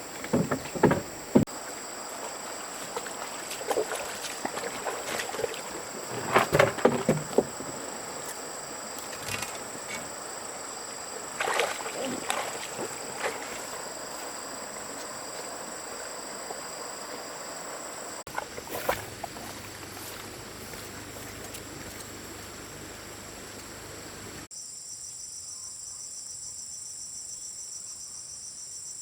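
Steady high-pitched insect chorus, with scattered knocks and rustles of handwork in the first half and once more after the middle.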